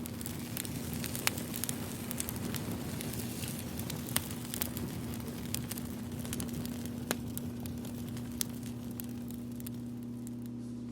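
Wood fire crackling, with irregular sharp pops and snaps, a few louder than the rest, over a steady low hum.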